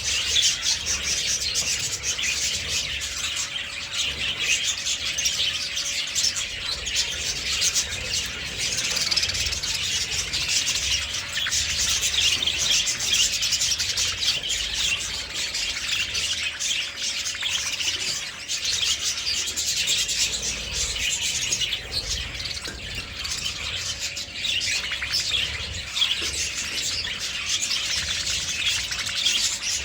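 Budgerigars chattering and warbling without a break, a dense stream of fast, high chirps, with a faint steady hum underneath.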